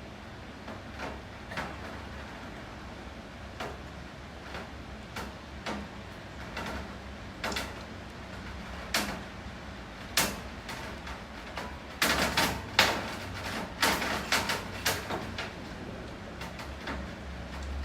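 Rain with drops tapping irregularly on a hard surface over a steady hiss. A quicker run of louder taps comes about twelve seconds in and lasts a few seconds.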